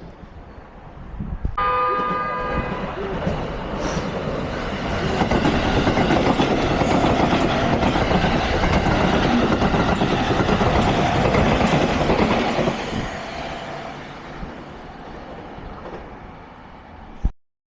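A train gives a short horn blast about a second and a half in, then runs past close by, its wheel and running noise rising to a loud peak mid-way and fading away. The sound cuts off abruptly near the end.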